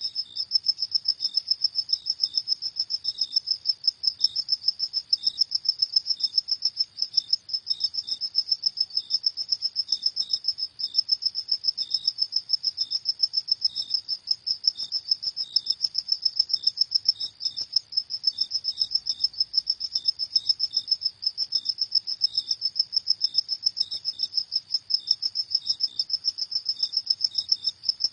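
Crickets chirping at night, a rapid pulsed trill repeating several times a second.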